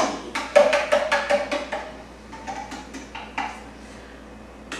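Juice glugging out of a bottle into a cup: a quick run of hollow knocking glugs, about eight a second, over a faint steady pitch, then a few scattered glugs as the pour slows.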